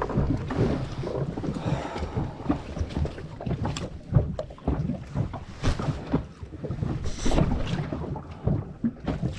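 Wind buffeting the microphone on a small fishing boat at sea, with water against the hull and scattered knocks and clicks.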